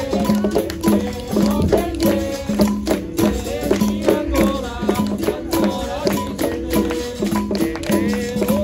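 Capoeira roda music: berimbaus sound repeated twanging notes under a tambourine-like pandeiro and other sharp percussion strokes, with voices singing over them.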